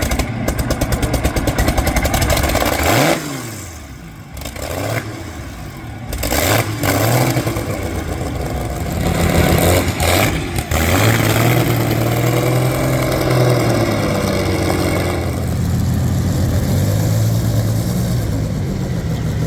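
Rolls-Royce Merlin V12 of a vintage unlimited hydroplane, straight-piped, running loud and being revved. The revs drop about three seconds in, pick up again with sharp blips, then hold at a steadier, slightly wavering speed for the second half.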